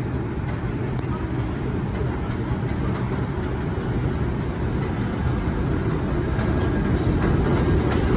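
New York City Subway 4 train of R142-type cars running through the station: a steady low rumble with a few faint clicks that grows slightly louder.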